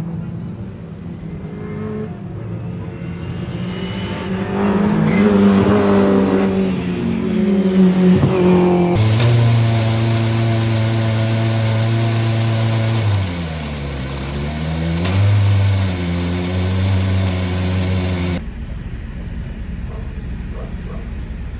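Rally car engines revving and accelerating hard, heard in clips joined by sudden cuts. In the middle clip one engine holds a steady high note, drops and comes back up about two-thirds of the way through, then gives way to a quieter, rougher engine sound for the last few seconds.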